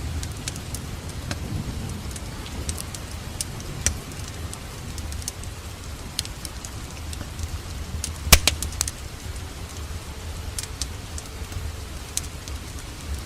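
Wood fire crackling, with scattered sharp pops, the loudest about eight seconds in, over the steady hiss and low rumble of rain.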